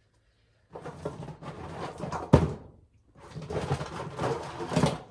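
Dry ear corn rustling and rattling as it is handled and shelled, in two long stretches, with a sharp knock a little over two seconds in.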